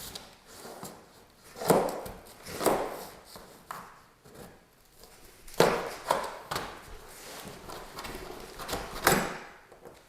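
Handling noises from unboxing a refrigerator: about seven irregular knocks and scrapes of packaging being moved and pulled, spread over several seconds with short pauses between them.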